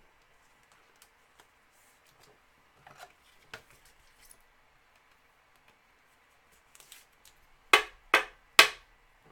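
Trading cards and their plastic sleeves being handled: a few faint clicks, then three quick, loud swishing scrapes close together near the end.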